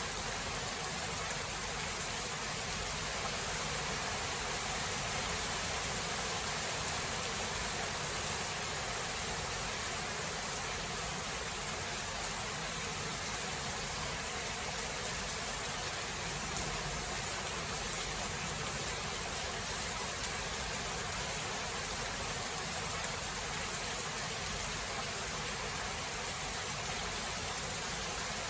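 Rain falling steadily, an even hiss with an occasional faint tick.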